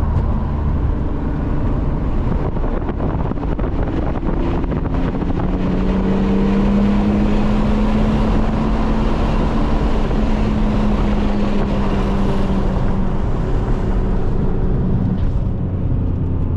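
BMW E36 M3 straight-six with aftermarket intake and exhaust, heard from inside the car at speed. The engine pulls under load, its pitch climbing slowly from about five seconds in and easing back after about twelve, over heavy wind and road noise.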